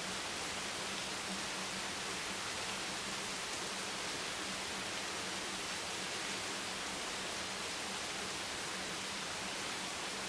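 Steady, even rain noise with no separate drops or gusts, and a faint steady low hum underneath.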